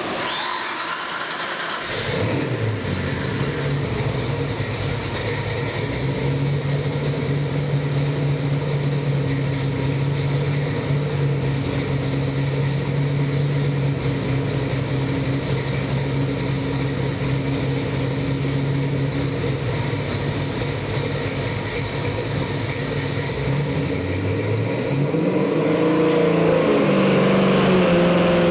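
A carbureted 347 stroker small-block Ford V8 running on an engine dyno: about two seconds in it comes up to a steady speed and holds it evenly, then near the end the revs dip and climb again in steps.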